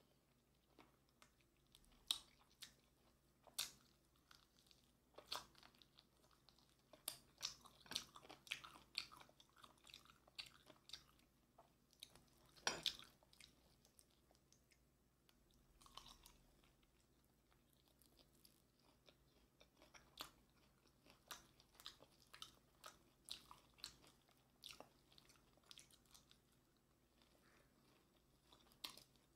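A person biting and chewing Korean fried chicken coated in yangnyeom sauce, close to the microphone: irregular crisp crunches, the loudest about two seconds in and near the middle.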